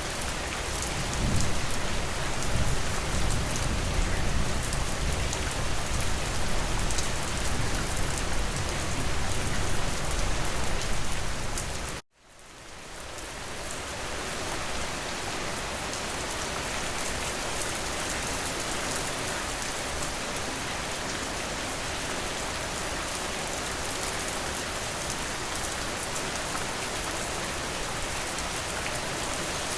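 Steady rain falling and pattering, with a low rumble beneath it in the first part. About twelve seconds in, the sound cuts out almost completely and then fades back in over a couple of seconds, like a loop join in the soundtrack, and the rain carries on more evenly.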